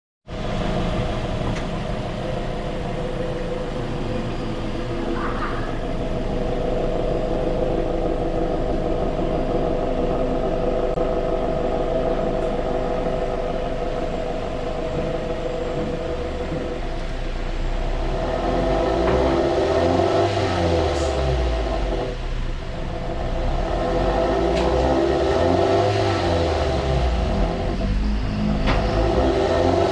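Ford Focus Mk2.5 exhaust with an aftermarket single-canister, single-outlet rear muffler (high-tone version) idling steadily. In the second half it is revved up and back down three times.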